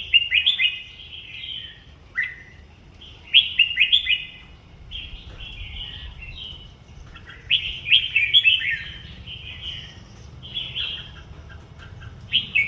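Sooty-headed bulbul calling, repeated short bursts of bubbly, quick chirped phrases with brief pauses between them.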